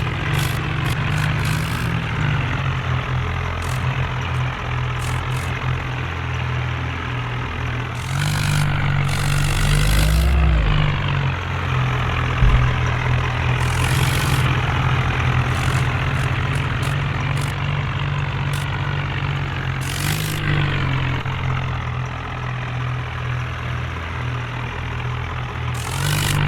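Tractor engine running steadily, with several short bursts of hiss over it.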